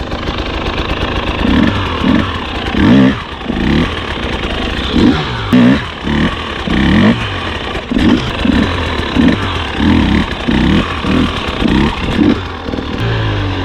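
Enduro dirt bike engine revved in repeated short throttle bursts over a running engine. The bursts come more often in the latter part, about two a second, as the bike is worked up a rough climb.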